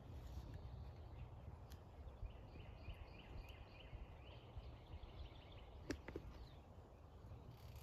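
Faint outdoor quiet: a low steady rumble, with a small bird singing a short run of quick, repeated high notes about two to four seconds in, and one sharp click near the end.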